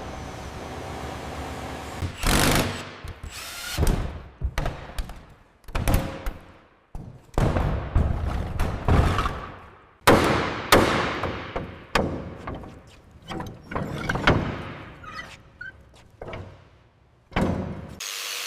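A run of heavy knocks and clanks, like tools and metal parts striking during work on the truck. There are about fifteen at an uneven pace, roughly one a second, and each rings off briefly.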